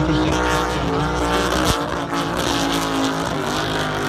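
High-horsepower offshore race boat engines running hard at speed, a loud, steady multi-toned drone with a slight change in pitch.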